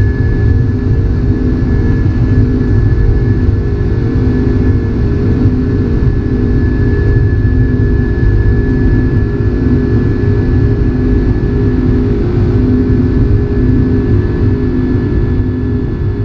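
Airbus A330-300 jet engines running steadily: a loud, deep rumble with a regular pulsing throb and a thin steady whine above it, fading out near the end.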